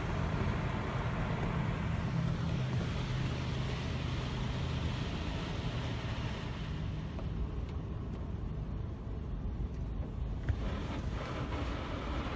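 Touch-free car wash spraying the car, heard from inside the cabin: a steady hiss of spray over a low hum, the hiss thinning out about seven seconds in.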